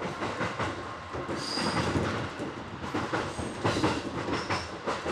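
Shin-etsu Line local train running along the track, heard from the driver's cab: a steady rumble with the clickety-clack of wheels over rail joints and a few brief high wheel squeals.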